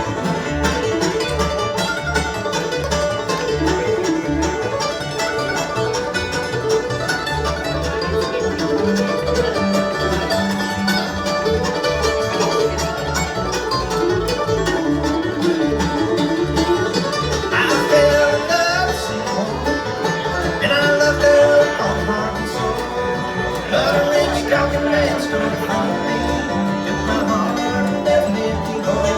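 Country string band playing an instrumental introduction with a steady bass beat and plucked strings. A fiddle-like bowed line comes to the fore in the second half.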